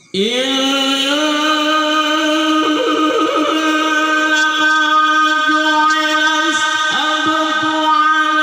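A man chanting in the melodic style of Quran recitation, sliding up into one long held note that wavers in ornamented turns a few times and carries on for over ten seconds.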